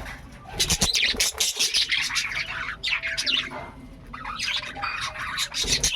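A flock of budgerigars chattering with many rapid, high chirps, easing off briefly a little before four seconds in.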